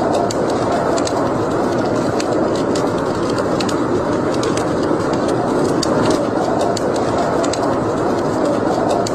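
Wood fire burning in a fireplace: a steady rush of flames with irregular sharp crackles and pops scattered throughout.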